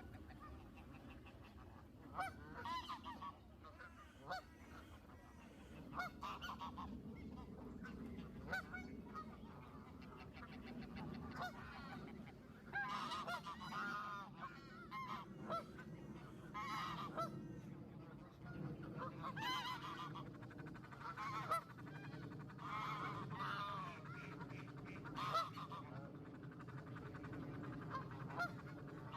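A group of birds calling over and over, short pitched calls coming singly and in clusters through the whole stretch, over a steady low background rumble.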